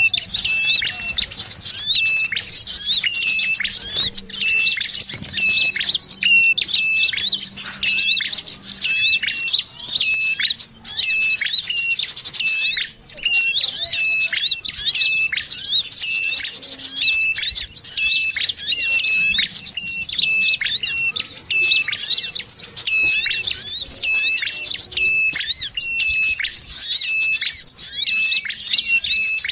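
Bird-lure recording (pikat sogon): dense, high-pitched twittering chatter mixed with prenjak kepala merah and kolibri kelapa sunbird calls, with one short call repeating about once a second.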